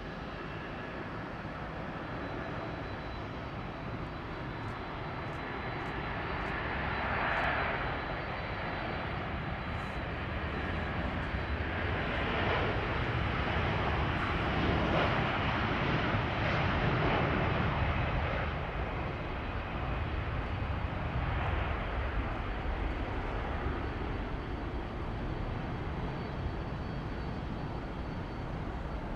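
Jet airliner engines as the plane passes: a steady rumble that builds to its loudest about halfway through, then eases off.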